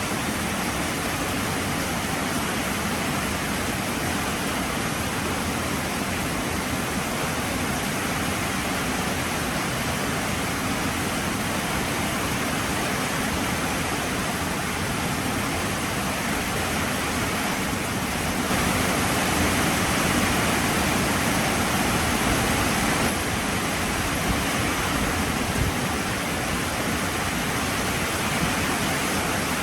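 Heavy rain falling steadily, a dense even hiss that swells louder for a few seconds about two-thirds of the way through.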